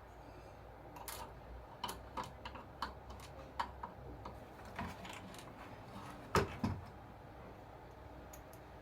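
Irregular light clicks and taps of small hard parts and tools being handled while an RC model bulldozer is worked on, with two louder knocks about six and a half seconds in.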